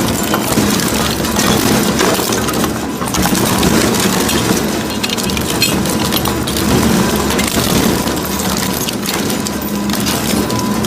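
A crusher machine running steadily under a motor's hum while it breaks material, with a constant clatter of small cracks and snaps.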